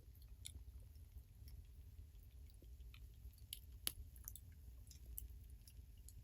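Faint chewing of food: scattered soft clicks and small crunches, irregularly spaced, over a low steady background rumble.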